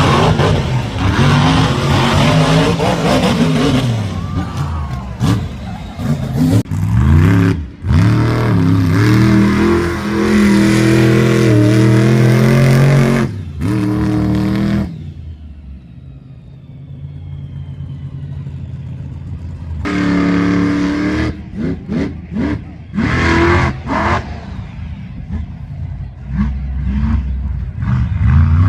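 Monster truck engines revving hard, the pitch rising and falling again and again. About halfway through they drop to a low idle, then come back in short, sharp blips of the throttle.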